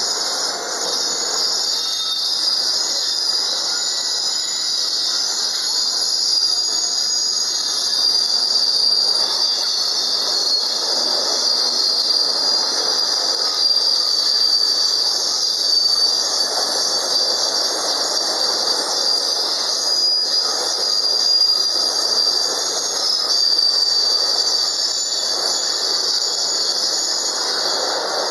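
A container freight train's wagons rolling past with a continuous high metallic wheel squeal that wavers slightly in pitch. Under it is the rolling rumble and clatter of the wheels, which swells and fades as the bogies pass.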